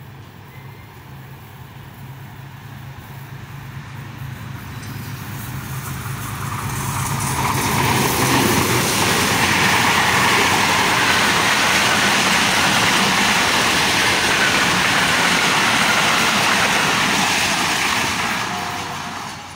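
A GEU-20 diesel-electric locomotive hauling a passenger train approaches and passes at speed. The engine's low drone grows steadily louder over the first eight seconds. Then comes about ten seconds of loud, steady wheel-on-rail noise from the coaches, which falls away near the end as the train goes by.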